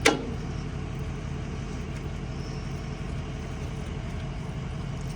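A steady low engine rumble, as of a motor vehicle idling, with one sharp knock right at the start.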